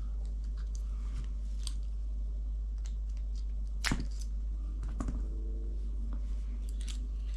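Small clicks and taps of an RC crawler's front axle parts being handled and pried apart by hand, with one sharper click about four seconds in and a few lighter ones just after, over a steady low hum.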